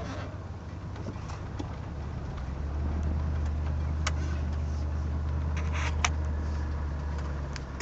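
1973 Pontiac Catalina's V8 idling steadily with a low, even rumble that grows a little louder about three seconds in, with a few faint clicks over it.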